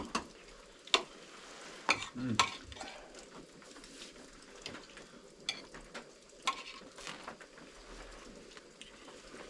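Thick-cut bacon sizzling in a frying pan, with a metal utensil clinking and scraping now and then.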